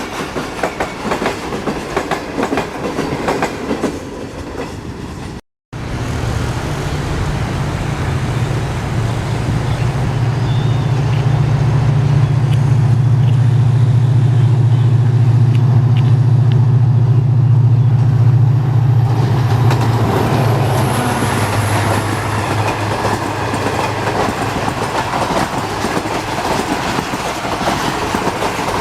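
A passing train's wheels clack over the rail joints. After an abrupt cut, a diesel locomotive's engine gives a loud, steady deep drone that peaks in the middle, then gives way to a steady rolling rumble of the train.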